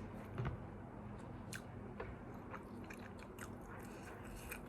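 Close-miked chewing and biting of McDonald's fast food: soft, irregular crunches and mouth clicks over a steady low hum.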